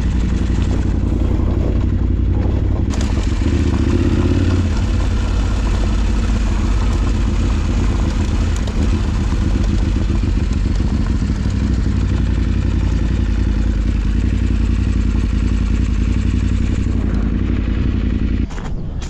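Adventure motorcycle's parallel-twin engine running steadily under way on an off-road track. There is a brief surge about four seconds in, and the engine sound drops away suddenly near the end.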